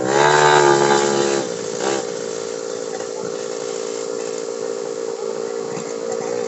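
Kawasaki Ninja motorcycle engine pulling away, its pitch rising over the first second and loudest for about a second and a half, then running steadily at a constant speed.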